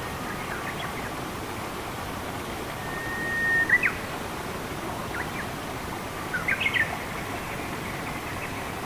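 Steady rushing of running water with songbirds calling over it: a held whistle about three seconds in that ends in two sharp chirps, a short chirp a little later, and a quick burst of chirps after about six seconds.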